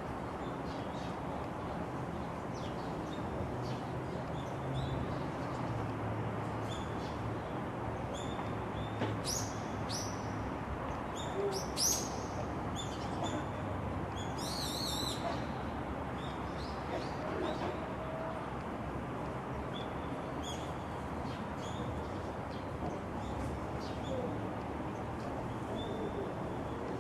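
Birds chirping and calling over a steady background hiss, with a cluster of sharp rising calls about nine to twelve seconds in and a quick trill shortly after.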